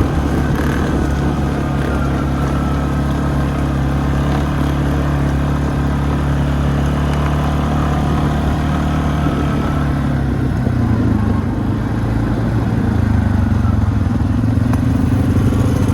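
ATV engine running steadily under way, easing off about ten seconds in and then picking up again.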